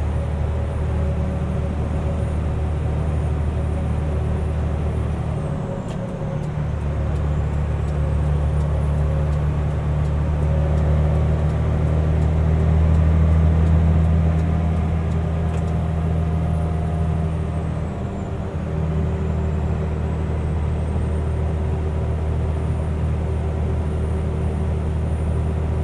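Mercedes-Benz Unimog U500's turbo-diesel engine pulling at cruising speed, heard from inside the cab as a steady low drone with road noise. The drone swells toward the middle and dips briefly twice as the truck works up through its top gears. A faint high whistle rises and falls in the middle.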